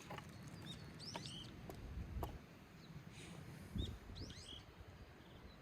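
A small songbird chirping: two short runs of quick, high chirps, about a second in and again past four seconds, with a soft knock just before the second run.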